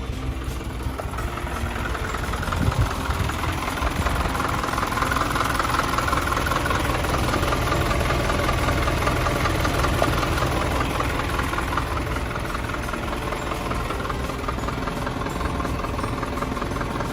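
Nissan Atlas light truck's engine running steadily, growing louder a few seconds in and easing slightly toward the end.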